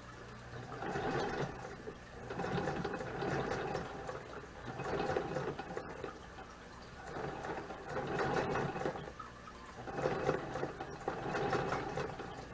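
Vintage Singer sewing machine stitching a seam through fabric in short runs, starting and stopping about five times.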